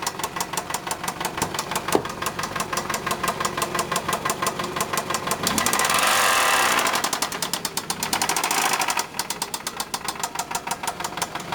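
1998 Toyota Camry engine running with a rapid, regular knock. It is revved up from about five and a half seconds in, held for a few seconds and let back down, and the knock goes on throughout. The owner thinks the knock sounds like worn bearings or a bent connecting rod.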